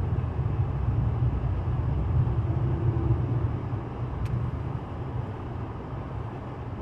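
Hyundai Santa Cruz pickup climbing a snow-covered runaway truck ramp: the engine is running under load over a low rumble of tyres and road noise, easing off a little after about four and a half seconds. A single light click sounds about four seconds in.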